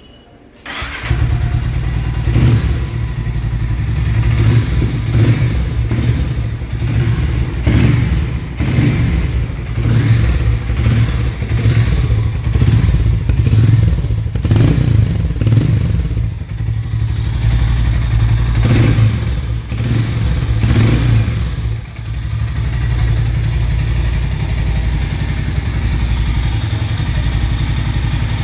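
Harley-Davidson X440's single-cylinder engine and exhaust starting up about a second in, then revved repeatedly with throttle blips for about twenty seconds. It drops back and runs at a steady idle near the end.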